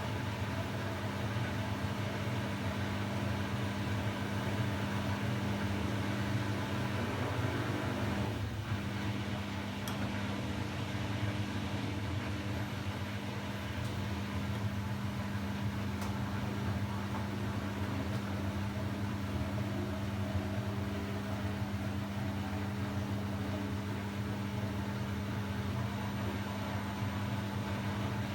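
Samsung WW90J5475FX/AH inverter washing machine running with a steady, even hum during its rinse-and-spin programme, with a brief knock about eight seconds in.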